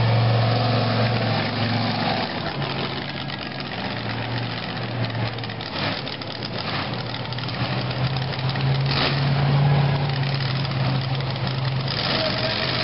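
Monster truck engine running steadily at low revs, its note rising slightly about nine seconds in.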